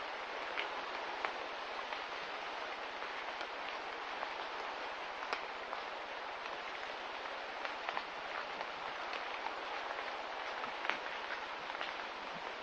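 Steady hiss of light rain, with scattered sharp drips and ticks landing irregularly.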